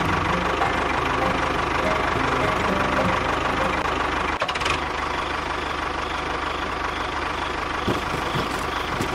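Small engine or motor running steadily at a constant pitch, with a brief break about four and a half seconds in.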